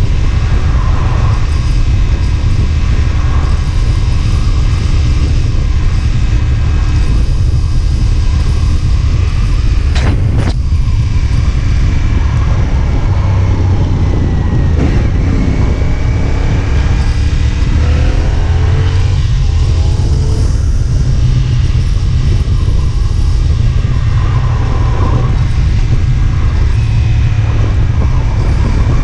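CFMOTO 450SR S motorcycle's parallel-twin engine running on the move over a heavy rumble of wind and road noise. About halfway through, the engine note climbs in rising pitch as it accelerates. A single sharp click comes about a third of the way in.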